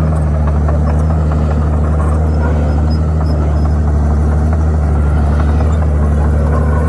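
Komatsu D51PX bulldozer's diesel engine running steadily, a deep low hum that holds the same pitch throughout.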